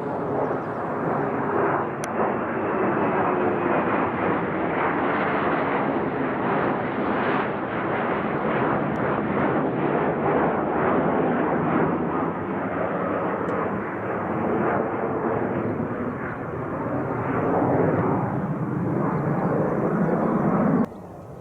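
Military fighter jet's engine noise, loud and sustained, with a slowly shifting rush as the aircraft moves; it cuts off abruptly just before the end.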